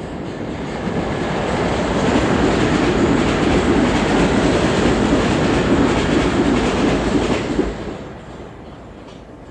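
Docklands Light Railway train running on the rails, with wheel and track noise that builds over the first couple of seconds, stays loud, then drops away sharply near the end.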